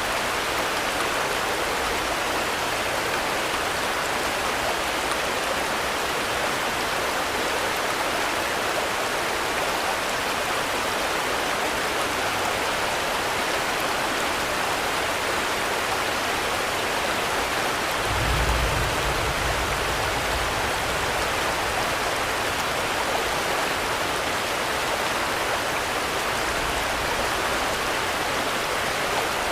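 Steady rain falling, an even hiss of many drops, with a brief low rumble about two-thirds of the way through.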